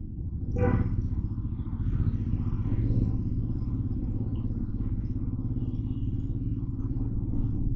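Motorcycle engine running steadily under way in city traffic, a low rumble. About half a second in, a short pitched toot rises briefly above it.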